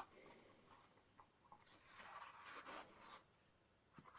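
Faint rubbing and scratching of hands and tissue on a bicycle tyre, a few soft clicks among it; it swells a little about two seconds in.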